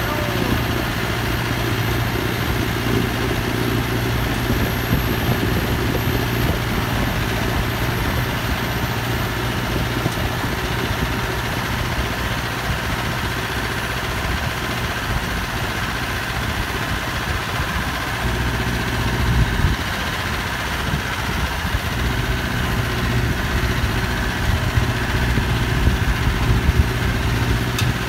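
Massey Ferguson 5430's Perkins four-cylinder turbo-diesel engine running steadily, pulling a load of about 12 tonnes of fertiliser. Its low drone eases for a few seconds about two-thirds of the way through, then returns.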